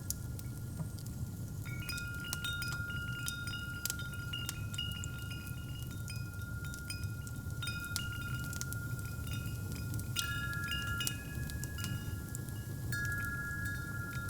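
Metal wind chimes ringing in loose clusters of held tones, struck afresh a few times, over a crackling fireplace with a steady low rumble.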